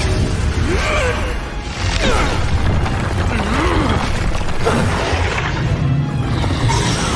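Animated battle soundtrack: dramatic music under booming impacts and crashes, with a few brief gliding cries.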